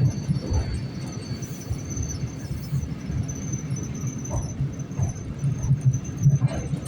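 ED4M electric multiple unit running, heard from on board: a steady low rumble with uneven thumps from the wheels on the track, and a faint steady high-pitched whine.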